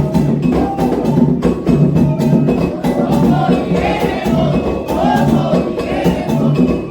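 Candomblé ceremonial music: atabaque hand drums and percussion playing a fast, driving rhythm under call-and-response singing. The singing grows stronger about three seconds in.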